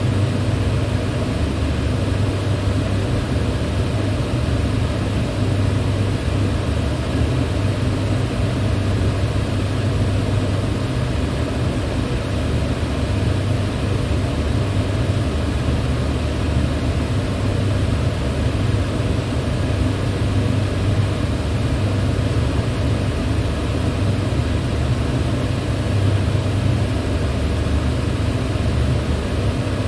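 Electric fan running at a steady speed: a constant rush of air with a deep, even hum underneath, unchanging throughout.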